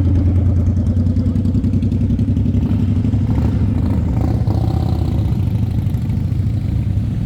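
Motorcycle engine running steadily with a low, pulsing rumble.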